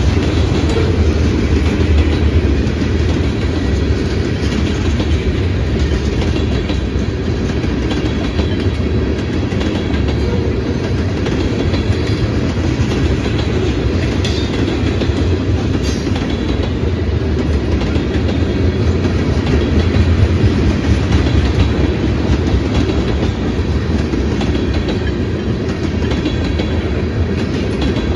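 Freight train cars rolling steadily past on the rails, a loud, even noise of wheels on track with a few sharper clacks.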